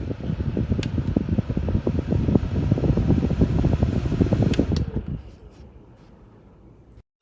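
Koonie USB desk fan blowing air onto the microphone, a loud, buffeting low rumble with a couple of sharp clicks. About five seconds in it dies down to a faint steady hiss.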